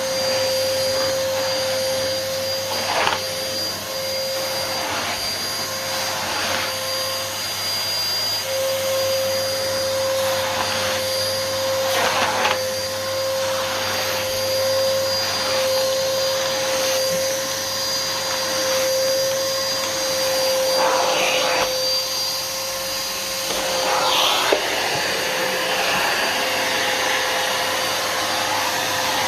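Numatic NuVac VNP180-1 vacuum cleaner running steadily while vacuuming: a constant motor hum with a high whistle above it, and a brief rush of air every few seconds.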